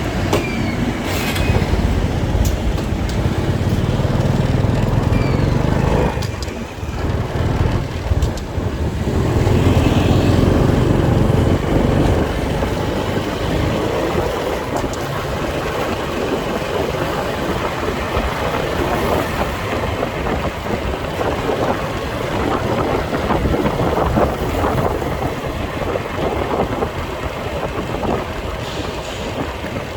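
Motorcycle riding through city traffic: its engine runs under steady road and traffic noise. The engine is louder for the first several seconds and again about ten seconds in, with a brief lull in between.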